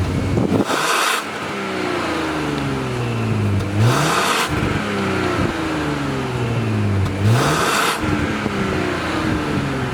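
Porsche Cayenne Coupe's turbocharged 3.0-litre V6 through an aftermarket Tneer exhaust, revved in three quick blips about three and a half seconds apart. Each blip brings a loud exhaust blast, and the revs fall slowly back toward idle.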